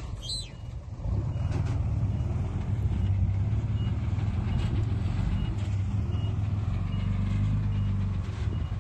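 Diesel engine of heavy earthmoving machinery running with a steady low drone, which gets louder about a second in. A faint reversing alarm beeps repeatedly over it.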